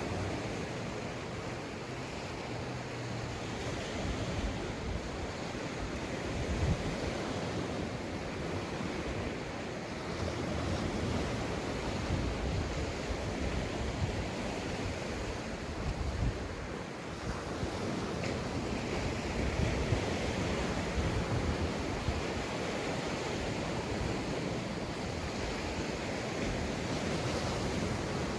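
Sea waves breaking and washing up a sandy beach: a continuous surf hiss that swells and eases, with wind rumbling on the microphone.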